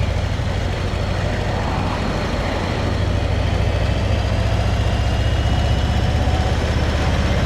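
Motorcycle engine running steadily under way, a deep, fast-pulsing drone with road and wind noise over it.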